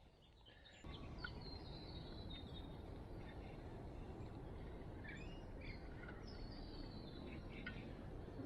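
Birds chirping and calling in short scattered notes over a faint, steady background hiss that comes in about a second in.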